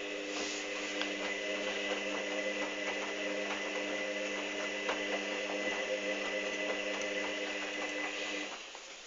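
Hoover Dynamic DYN 8144 D washing machine running at the start of its cycle: a steady mechanical hum with a thin high whine and light clicking, which cuts off about eight and a half seconds in.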